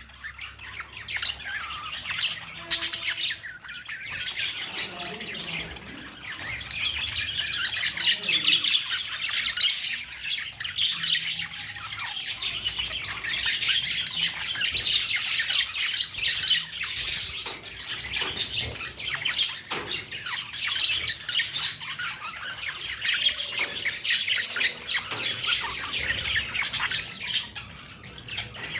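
A group of budgerigars chirping and chattering together in a continuous, overlapping warble.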